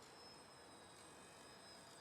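Faint, high whine of a small RC model plane's motor and propeller in flight, its pitch drifting slightly lower, over a light background hiss.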